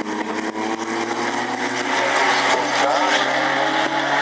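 Several racing sports car engines running hard, their notes overlapping and slowly shifting in pitch, growing louder about halfway through as the cars come nearer.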